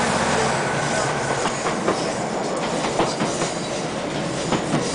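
Class 156 Sprinter diesel train running along the line, heard from aboard: a steady rumble and rush with scattered clicks of the wheels over the rails. A low drone drops away about half a second in.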